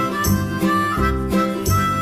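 Background music with a steady beat, led by a harmonica-like reedy melody over a plucked bass line.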